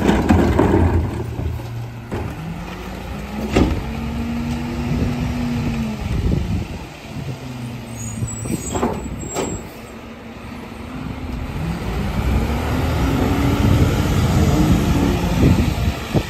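Garbage truck's engine revving up and falling back twice, with a few sharp knocks in between.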